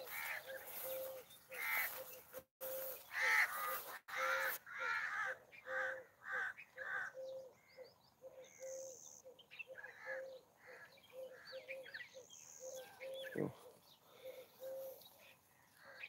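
Birds calling from the trees: loud repeated calls through the first half, then fainter high chirps, over a short note that repeats about once a second throughout.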